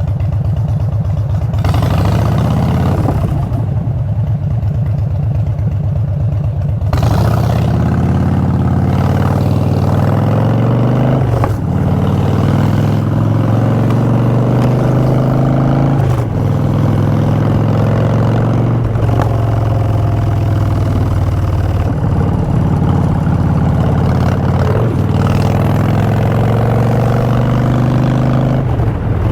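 Harley-Davidson Street Bob's V-twin through Vance & Hines Short Shots exhaust, running at low revs and then accelerating from about seven seconds in. It pulls up through the gears, with the pitch rising and then dropping briefly at each of several shifts.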